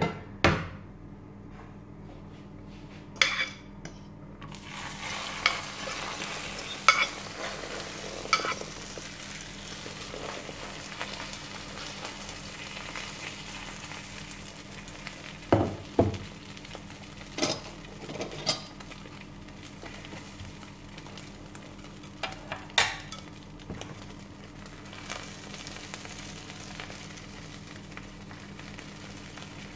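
Potato-and-egg tortilla mixture sizzling in a hot non-stick frying pan. The sizzle sets in suddenly about four seconds in, as the mixture goes into the empty pan. A fork and a wooden spatula tap and scrape against the pan now and then.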